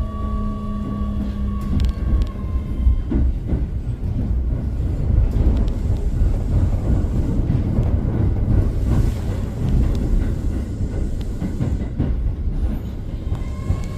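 Electric commuter train running on rails. The motor whine falls in pitch and fades in the first two or three seconds, leaving a steady low rumble of wheels and track.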